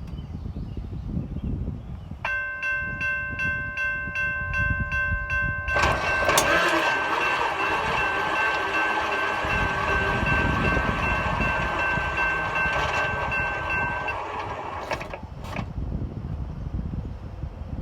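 Railroad grade-crossing bell ringing in quick, even strokes, then a train passing close by from about six seconds in, its rush heard over the bell. The train noise fades about fifteen seconds in, with a couple of sharp clanks.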